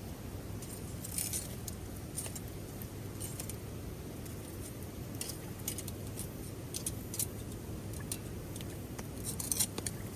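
Scattered short, sharp clicks and snips, bunched in small clusters, over a steady low background rush.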